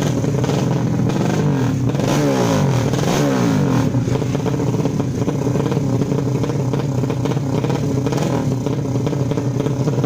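155cc racing motorcycle engines running loudly, with one engine's pitch falling away about two to four seconds in.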